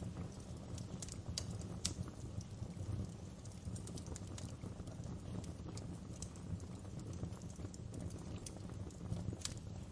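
Wood fire crackling and popping: irregular sharp snaps over a steady low rumble of flames, with louder pops about two seconds in and near the end.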